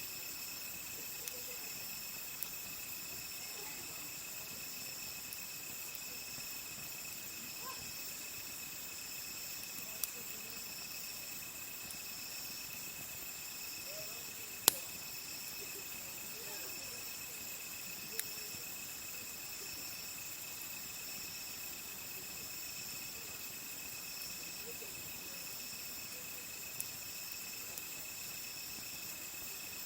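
Crickets and other insects chirring steadily at several pitches, one of them pulsing. A campfire crackles with a few sharp pops, the loudest about halfway through.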